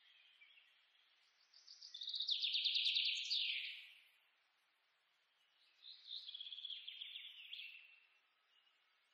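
Birdsong: a fast trill of rapid repeated notes that ends in a falling sweep, about two seconds in, then a softer, shorter phrase about six seconds in.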